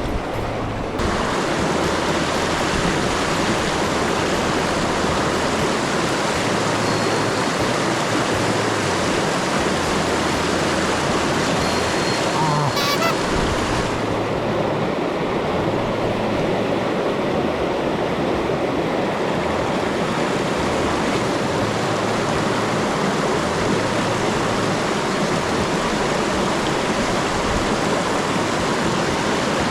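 Steady rush of a mountain stream's flowing water, an even noise without breaks.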